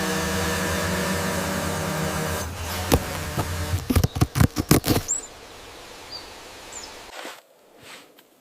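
A steady, motor-like hum that stops about two and a half seconds in, followed by a run of sharp knocks and clunks, then a quieter outdoor background with a couple of brief bird chirps.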